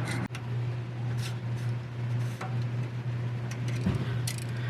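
A few faint, light clicks and taps of small measuring tools and parts being handled on a bench, over a steady low hum.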